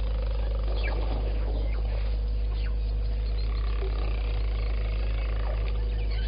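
Outdoor bush ambience: scattered short bird chirps over a steady low hum, with a brief grainy rumbling sound about a second in.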